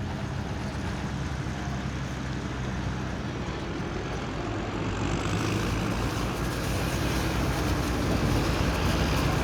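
Competition pulling engine running hard under load, growing louder from about halfway through.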